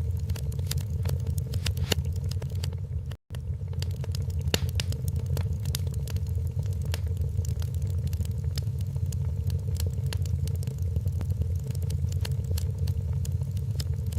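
Wood fire crackling, with frequent sharp pops and snaps over a steady low rumble. The sound cuts out to silence for a split second about three seconds in.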